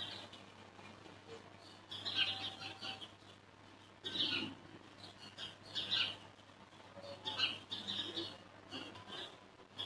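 Small birds chirping in short, irregular bursts of high calls every second or so.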